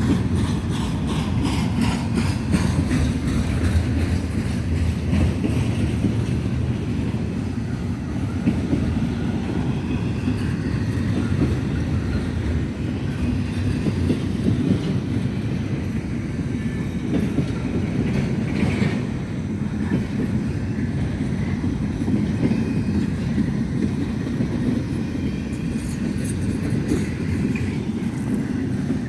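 Intermodal freight train cars rolling past with a steady low rumble and wheels clicking over rail joints, the clicking clearest at the start and again near the end.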